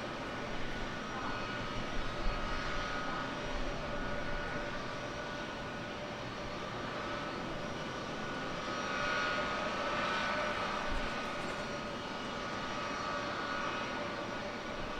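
Jet airliner engines running with a steady whine over a broad rush, swelling about nine seconds in.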